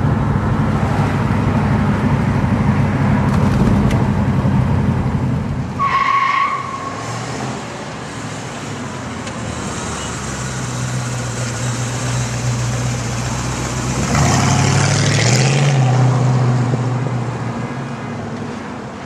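1969 Ford Mustang Mach 1's 351 four-barrel V8 running as the car drives, loud at first with a brief squeal about six seconds in. It then settles into a steady drone that swells about fourteen seconds in as the engine picks up, and fades toward the end.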